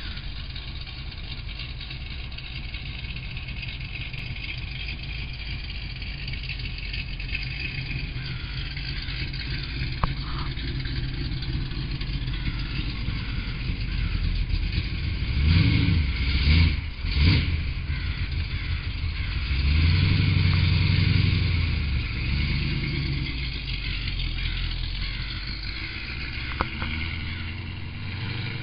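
Supercharged LT1 V8 with a Corsa exhaust idling steadily, then blipped several times in quick succession about halfway through and held at a longer rev shortly after, dropping back to idle. The exhaust is leaky, and a clacking is present, which the owner puts down to the car being unfinished.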